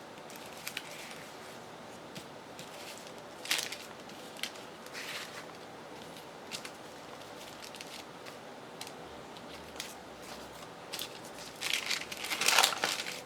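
Paper being handled on a craft desk: scattered rustles and light taps as pieces of printed paper are picked up, moved and set down, with a louder burst of rustling near the end.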